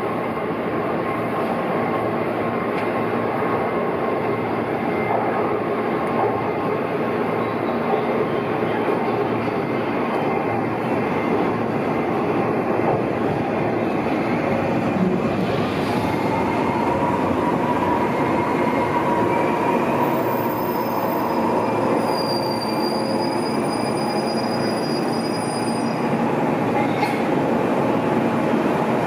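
Electric train running through the station, with a steady rumble of wheels on rail. A thin, high wheel squeal sounds for several seconds from about twenty seconds in.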